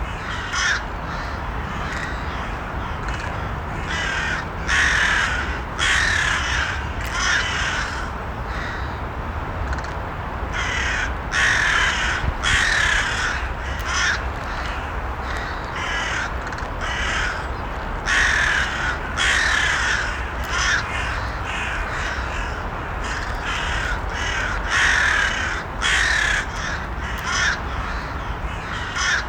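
Crows cawing repeatedly, several harsh calls in quick runs throughout, over a steady low background rumble.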